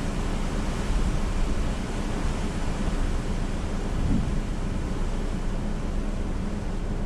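Steady rushing noise of hurricane wind and rain, with a faint low hum underneath.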